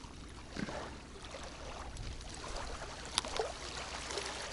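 Faint, steady wash of wind and water noise, with a soft knock about half a second in and a sharp click a little after three seconds.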